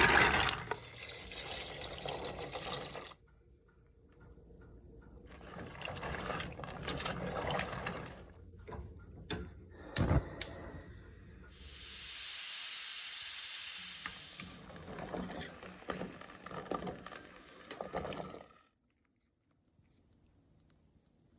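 Water running and splashing in a kitchen sink in several stretches, with two sharp knocks about ten seconds in and a louder steady rush of running water around twelve to fourteen seconds; the sounds stop about three seconds before the end.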